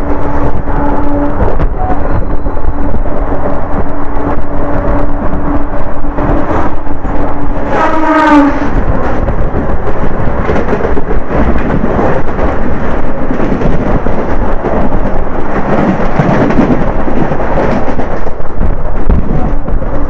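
Heavy rumble and rattle of an express train running at speed through a station, heard from on board with wind buffeting the microphone. About eight seconds in, a short train horn blast sounds and drops in pitch as it passes.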